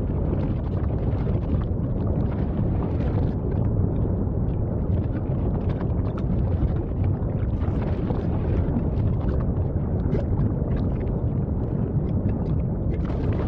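Volcanic eruption rumbling: a steady deep rumble with fine crackling on top, the microphone buffeted by wind.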